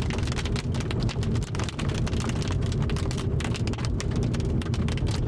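Rain and hail striking the roof and windshield of a moving car: dense, irregular ticks over the steady hum of engine and tyres.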